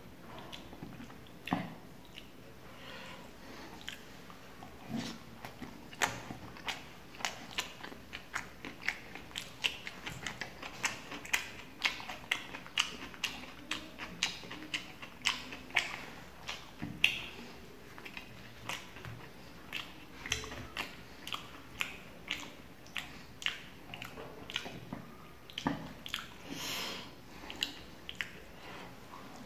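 A person chewing close to the microphone: wet, smacking mouth sounds of eating roti with tarka by hand. The smacks come two or three a second through the middle and thin out near the end.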